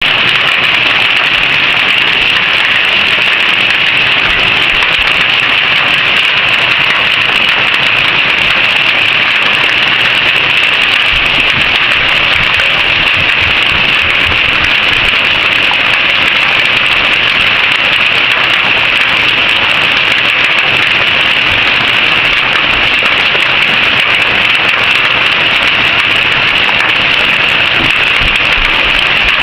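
Hail falling heavily in a dense, steady downpour, a loud unbroken hiss and patter that neither swells nor dies away.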